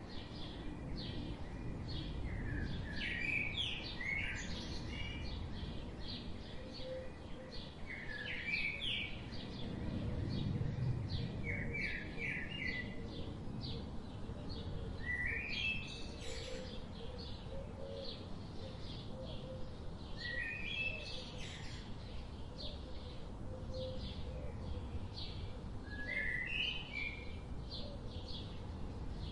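Birds chirping in short runs of quick notes every few seconds, over a steady low outdoor rumble.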